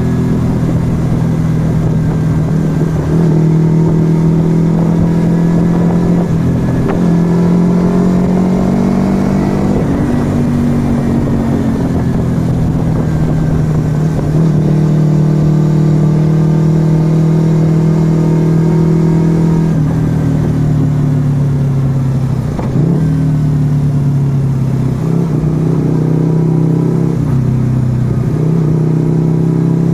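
Yamaha XV125 Virago's small air-cooled V-twin running through a Turbo Kit aftermarket exhaust while riding, engine pitch rising under throttle and dropping briefly at gear changes, with dips about ten, twenty and twenty-three seconds in.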